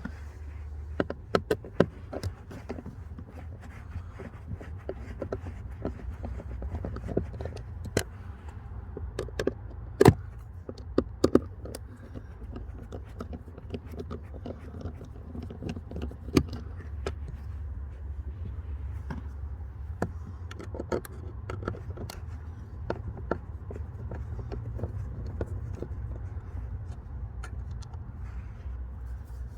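Irregular sharp clicks and knocks of plastic dashboard trim and the cabin filter housing being unclipped and handled, loudest in a cluster around a third of the way in, over a steady low rumble.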